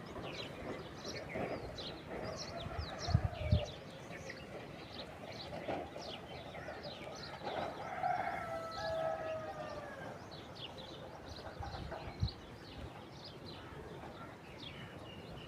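Small birds chirping in many short, high calls throughout. A longer drawn-out call that falls away at its end comes near the middle, and a few dull low knocks come about three seconds in and again near the end.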